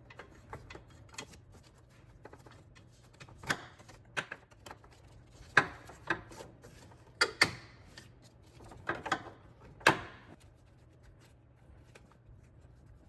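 Hand tools clicking and clanking against metal while an engine mount bolt is worked loose: irregular sharp knocks, some in quick pairs, the loudest around the middle and about ten seconds in.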